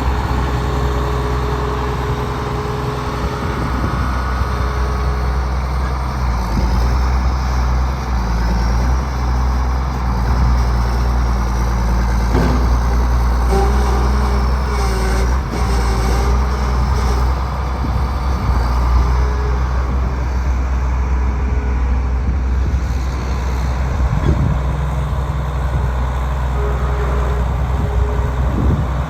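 Case 1080B excavator's diesel engine running steadily, with a faint wavering whine that comes and goes over it.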